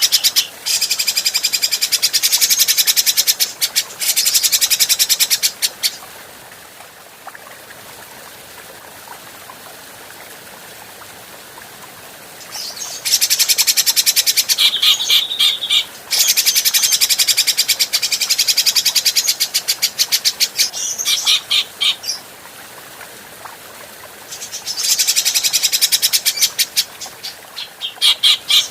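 Grey-cheeked bulbul (cucak jenggot) calling in long bouts of fast, chattering notes, each several seconds long. Quiet gaps of several seconds separate the bouts.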